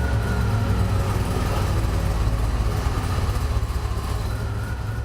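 DeLorean DMC-12's PRV V6 engine, fitted with a Stage II upgrade, running steadily with a deep low exhaust note and a faint whine that dips slightly, then rises again near the end.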